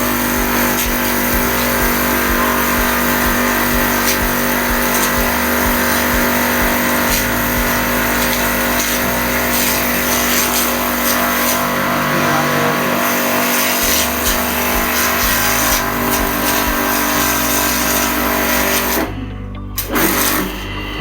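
Aimex D7 electric pressure washer running steadily, its motor humming under the hiss of the water jet as it cleans a floor. It cuts out briefly near the end, then starts again.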